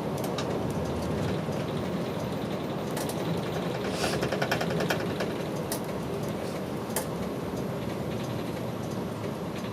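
Inside a route bus on the move: steady engine and road noise, with sharp clicks and a quick run of rattling ticks from the cabin about halfway through.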